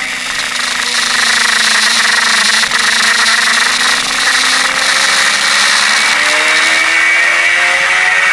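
Suzuki GSX-R K5 sportbike's inline-four engine running hard at speed, heard from a camera mounted behind the fairing with heavy wind rush. The engine note holds fairly steady through a bend, then climbs as the bike accelerates near the end.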